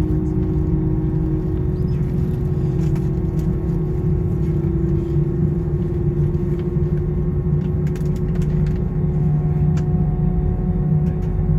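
Cabin noise inside an Airbus A320: a steady, loud rumble of the jet engines and airframe with a constant low hum, and a few light clicks and rattles from the cabin.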